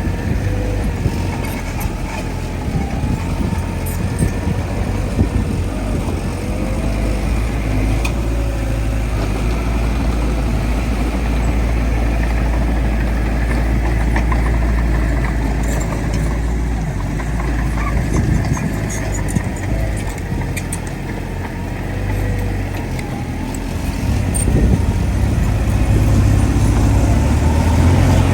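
Heavy diesel earthmoving machinery running, its engine pitch wavering with the load, getting louder about four seconds before the end.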